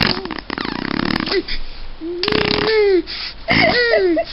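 A 10-month-old baby girl blowing raspberries, making a buzzing fart noise with her lips, followed by two short high-pitched vocal sounds about two and three and a half seconds in.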